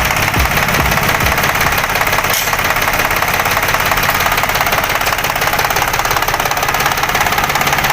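An engine running steadily at idle with a fast, even low throb, loud throughout.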